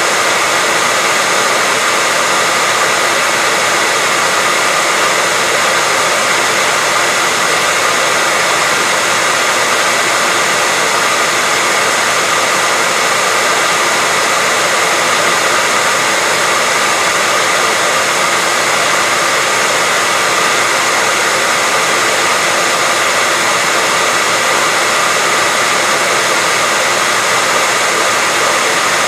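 Hairdryer running steadily: a constant, even rushing of blown air with a faint steady whine from the motor.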